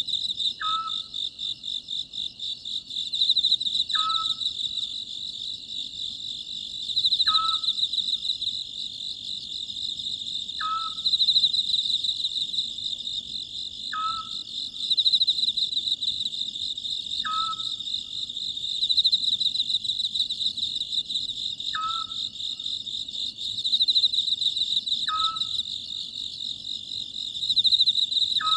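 Oriental scops owl calling, one short note repeated about every three seconds, over a steady high chirring of insects.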